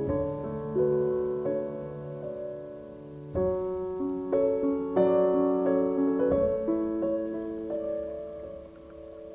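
Background piano music: slow chords struck and left to ring and fade.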